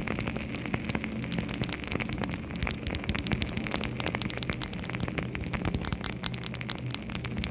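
Rapid tapping on small boxes: many quick, irregular clicks close together.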